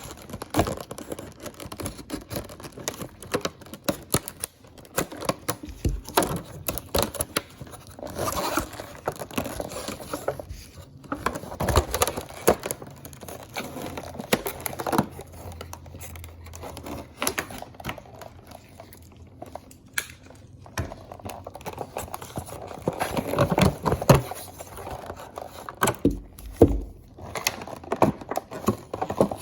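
Packaging being opened and handled: plastic and cardboard crinkling and tearing, with scattered clicks and knocks.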